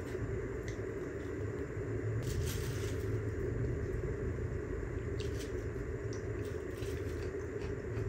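Faint crunching and clicks of someone chewing salad, a few bites about two seconds in and again around five to seven seconds, over a steady low hum.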